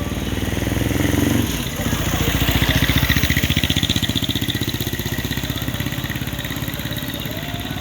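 A vehicle engine running with an even, rapid pulse, growing louder for a couple of seconds early on and then settling back to a steady run.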